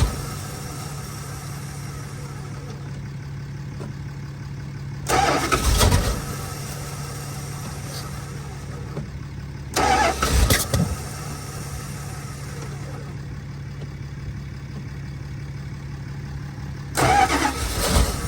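First-generation Dodge truck engine being cranked in three short bursts of about a second each, a few seconds apart, sputtering without catching, over a steady low hum. It is a cold start in deep cold, with the engine oil thickened nearly solid, so the engine is reluctant to fire.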